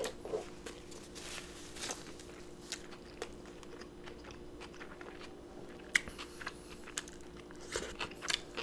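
Close-up eating sounds of a person chewing a mouthful of elk burger topped with nacho cheese: soft wet smacks and small clicks, with a fresh bite taken near the end.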